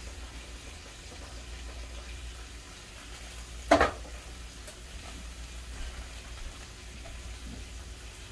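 Cabbage frying with a faint sizzle in a skillet on an electric stove, over a steady low hum. A single sharp knock comes a little under four seconds in.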